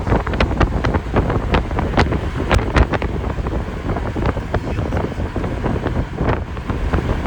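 Wind buffeting the microphone: a heavy low rumble broken by many irregular short crackles.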